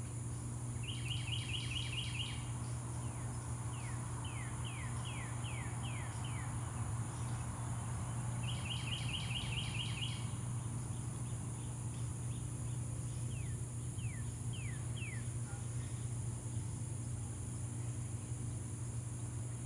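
A songbird singing: series of quick downslurred whistles, twice breaking into a fast trill. Under it are a steady low hum and a steady high insect drone.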